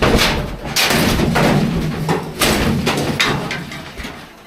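A series of loud knocks and thuds a second or so apart, with rattling and scraping between them, fading towards the end.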